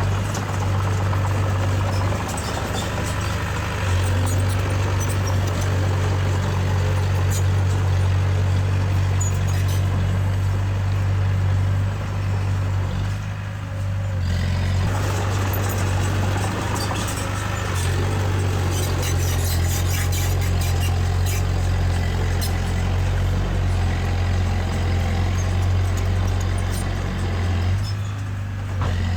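Heavy earthmoving machine's diesel engine running steadily, with light clanks and rattles over it.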